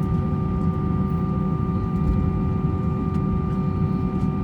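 Airbus A321-200 cabin noise on the ground before takeoff: a steady low rumble with several steady whining tones over it.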